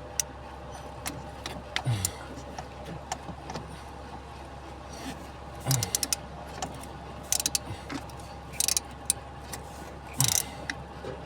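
Scattered metallic clicks, clinks and short scrapes of hand tools working at the gas pedal bracket screws under a truck's dashboard, over a steady low hum.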